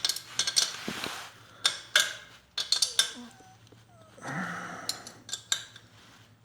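Irregular clicks and knocks of hand tools and metal parts being handled while fitting a motorcycle exhaust, with two short noisy rushes in between.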